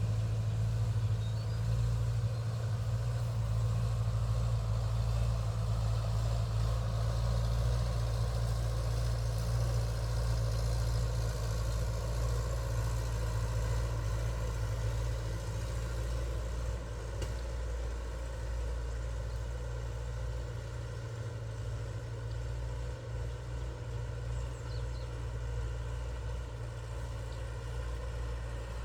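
A vehicle engine running steadily with a low, even drone, easing a little quieter just past halfway.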